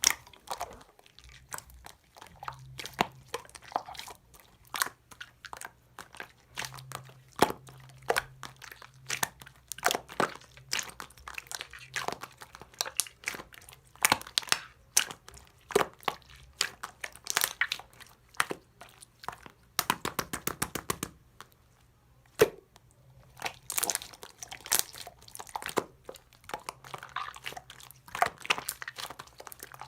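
Clear slime being squeezed and stretched by hand, giving quick irregular clicking and crackling pops, with a denser run of crackles about two-thirds of the way through.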